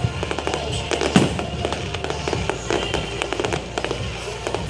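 Fireworks going off in a rapid string of bangs and crackles, the loudest about a second in, with music playing underneath.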